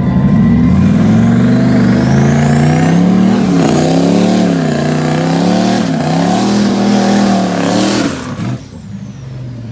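A drag-racing vehicle's engine at full throttle. It revs up about a second in and is held high, its pitch dipping and climbing back twice, with a high whine rising alongside. About eight seconds in it cuts off sharply and a fainter whine falls away.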